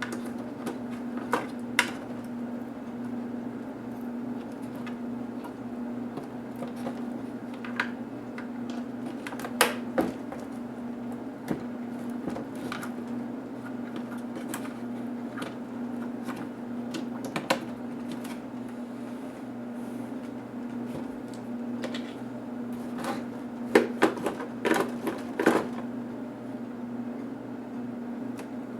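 Scattered clicks and taps of small hand tools and plastic and metal laptop parts being handled during disassembly, with a quick run of louder clicks near the end, over a steady low hum.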